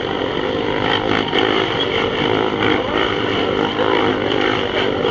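Several motorcycle engines running together inside a globe of death, making a steady, even drone.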